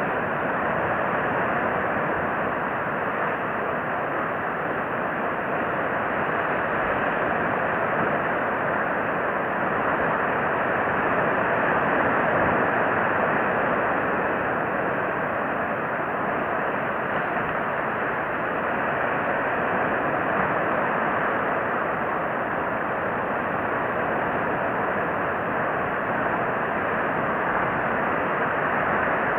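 Steady outdoor background noise: an even, constant rushing hiss that swells slightly now and then, with no distinct calls or events.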